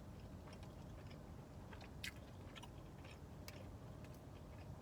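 Quiet chewing and mouth sounds of someone eating, with a few soft clicks, the clearest about two seconds in and again past three seconds, over a faint low hum.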